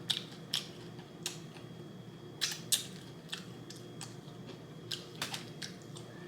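Close-up eating sounds: chewing with about ten short crunches and mouth clicks scattered unevenly, over a faint steady hum.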